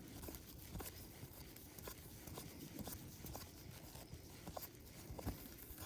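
Faint, scattered soft clicks and light rubbing of trading cards being flipped through by hand.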